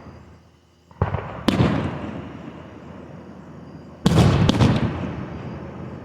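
Fireworks bursting: a bang about a second in and another half a second later, then three bangs in quick succession around four seconds in, each trailing off into a long echoing decay.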